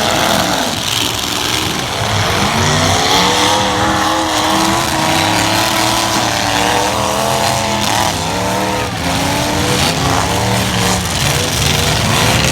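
Several light trucks' engines revving hard in a demolition derby, their pitches rising and falling as they accelerate and back off, over a steady wash of noise.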